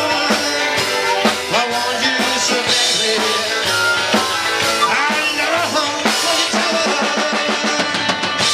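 A live rock-and-roll band playing an instrumental passage without vocals: drum kit with snare and bass drum keeping a steady beat under a bending, pitched lead line.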